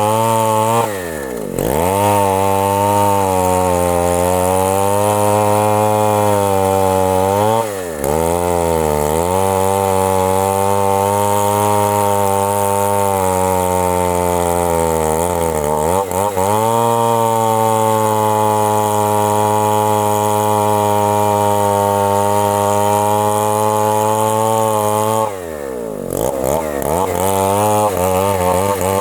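Two-stroke chainsaw running at high revs through a very large tree trunk, on a steady engine note. Four times the note drops briefly and climbs back up.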